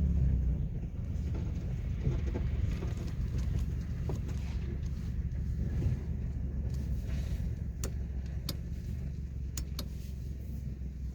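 Steady low rumble of a car driving, heard from inside the cabin, with a few sharp clicks about eight to ten seconds in.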